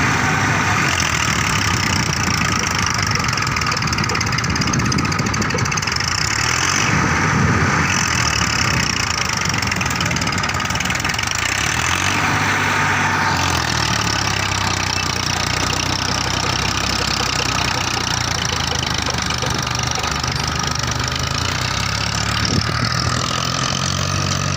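Massey Ferguson 1035 DI tractor's three-cylinder diesel engine running at an even loudness.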